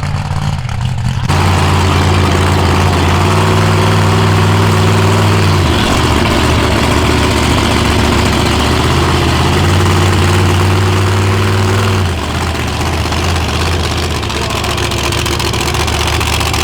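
An off-road vehicle's engine running hard at high revs, its note easing off about six seconds in, coming back, then easing off again near twelve seconds, under a loud rushing noise.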